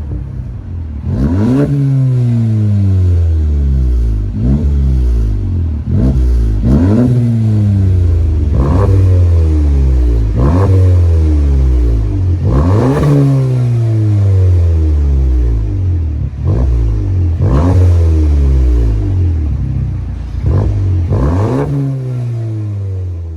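2019 Volkswagen GLI's turbocharged four-cylinder engine free-revving through a Street Demon cat-back performance exhaust: about ten quick blips of the throttle, each a sharp rise in pitch followed by a slow fall back toward idle.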